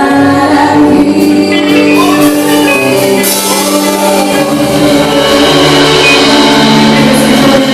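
Live worship song: two women singing with instrumental accompaniment, full and loud in a large hall.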